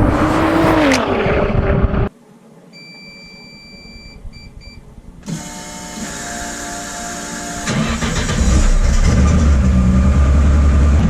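Background music cuts off about two seconds in, followed by a few short electronic beeps; then the Ford Escort RS Cosworth race car's turbocharged engine starts up and, a few seconds later, runs at a loud, deep idle.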